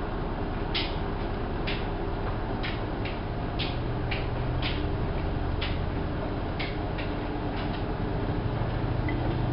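Hanseatic HWM814A3D front-loading washing machine running a wash cycle: a steady motor hum from the turning drum, with short sharp clicks about once a second.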